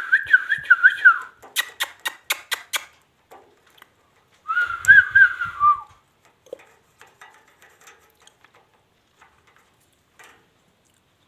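Two bursts of quick warbling whistle wavering around one pitch, each about a second long, with a string of sharp clicks between them.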